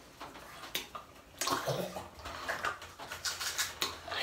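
Close-up mouth sounds of eating pani puri: the crisp puri shells crunching and crackling and the watery filling slurped, in irregular clicks and short rustles.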